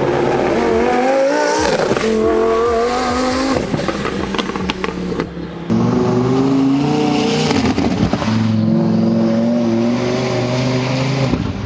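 Twin-turbo Lamborghini Huracan's V10 engine revving and accelerating hard, its pitch climbing and dropping through the gears, with a few sharp exhaust pops about four to five seconds in.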